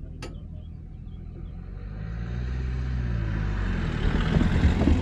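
Low rumble of a passing train, building from about two seconds in and loudest near the end, with a few knocks at its peak. A single sharp click comes just after the start.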